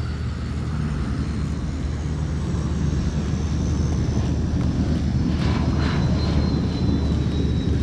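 Piston warbird engine noise from a display aircraft flying overhead, a steady low drone that grows slightly louder.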